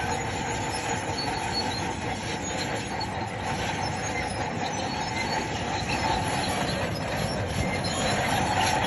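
Crawler bulldozer at work, its diesel engine running under steady load while the steel tracks squeal and clatter.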